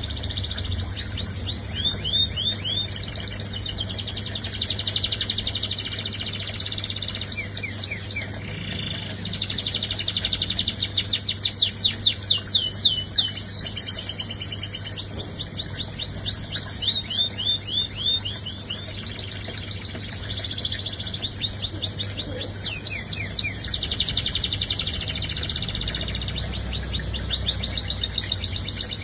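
Domestic canary in full song: a long, nearly unbroken run of fast trills and rolls in phrases a few seconds long, with short falling notes between them. The song is loudest about a third of the way in. A faint steady low hum sits underneath.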